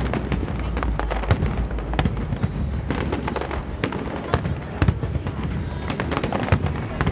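Aerial fireworks display: shells bursting in irregular sharp bangs and crackles, several a second at times, over a steady low rumble.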